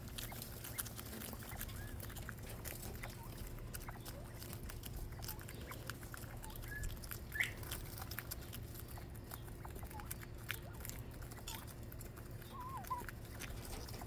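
Quail feeding, with light clicking and scratching and a few faint short chirps, then a short wavering call near the end, over a steady low hum.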